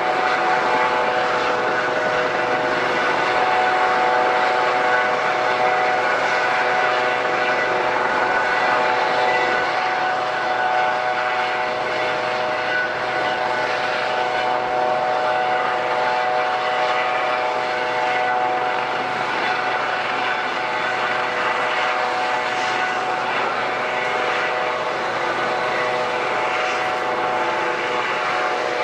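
Airliner engines running steadily on the ground, a constant engine whine made of several steady tones over a rushing noise, with no rise or fall in level.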